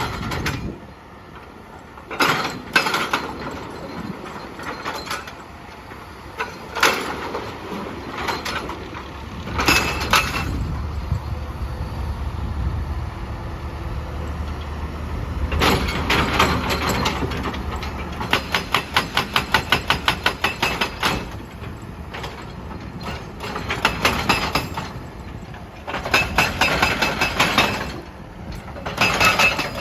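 Excavator's hydraulic breaker hammering rock in bursts of rapid strikes, up to about seven a second, with the machine's engine rumbling steadily between bursts.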